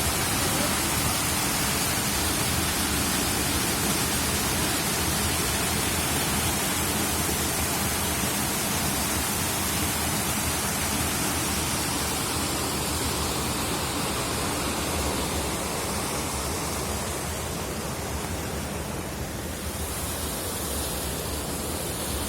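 Rushing water, a steady, even noise with no breaks, easing slightly in the last few seconds.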